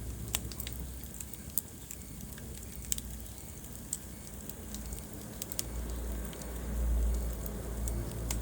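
Wood fire burning in a fireplace: sharp pops and crackles about once a second over a low, steady rumble of the flames. The rumble swells briefly about six seconds in.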